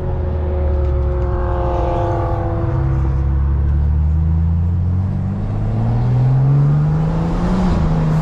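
Turbocharged BMW inline-six with an aftermarket intake, heard from inside the car, its engine and intake note rising steadily as the car gathers speed.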